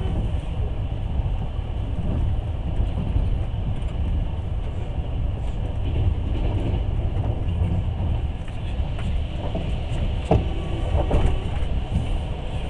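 Long-distance passenger train running, heard from inside the carriage: a steady low rumble of wheels on the rails, with a few sharper knocks near the end.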